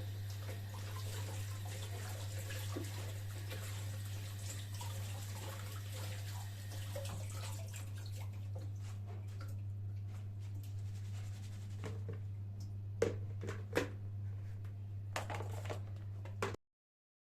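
Water running from a tap, an even rushing that thins out about halfway, over a steady low hum; a few sharp knocks follow near the end before the sound cuts off abruptly.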